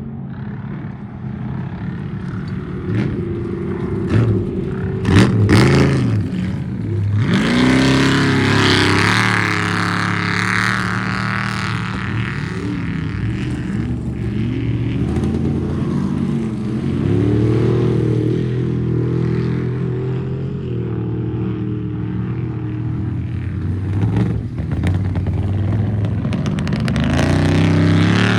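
Off-road race vehicle engines running hard, revving up and down several times as they go by, with a loud spell of sharp cracks about five seconds in.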